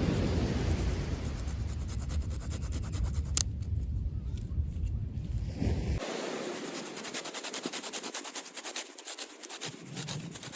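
Steady rushing of wind and surf, with a dense run of fine clicks throughout; the low rumble drops out abruptly about six seconds in.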